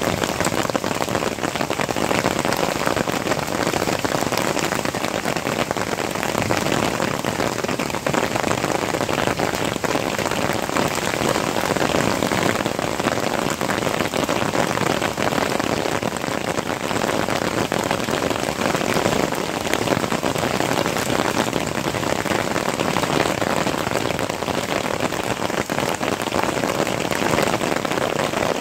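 Heavy rain pouring down steadily, a dense, even hiss of drops hitting roofs and surfaces.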